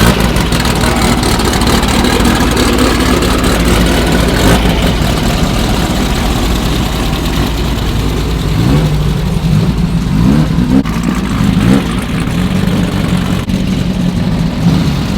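A car engine idling steadily, then revved several times in quick rising blips about two-thirds of the way through.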